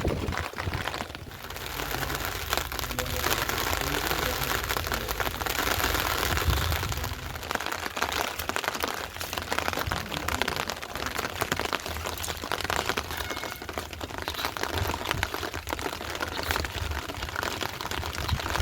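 Steady rain falling, a continuous hiss dotted with many close drops tapping on surfaces.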